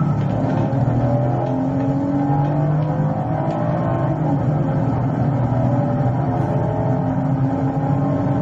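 Police car engine running hard at speed, with road and tyre noise, heard from inside the cruiser as a steady drone that rises and falls slightly in pitch.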